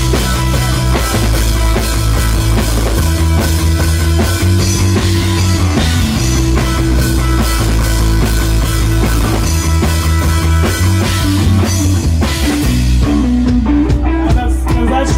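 A rock band playing an instrumental passage with drums, bass and electric guitar. Near the end the drums thin out and a picked guitar line is heard.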